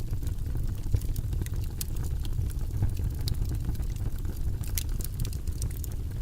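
Logs burning in a fireplace: a steady low rumble from the fire with scattered sharp crackles and pops, one louder pop about a second in.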